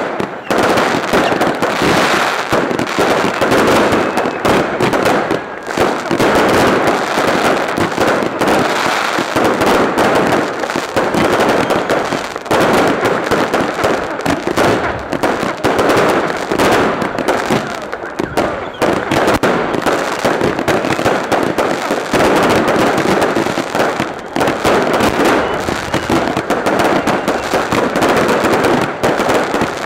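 Fireworks display: many rapid bangs and crackles running together without a break.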